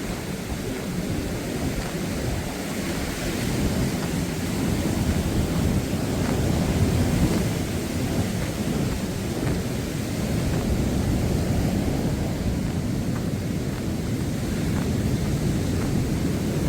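Rough surf rolling onto the beach, mixed with wind buffeting the microphone as a low, steady rumble that swells louder for a few seconds in the middle.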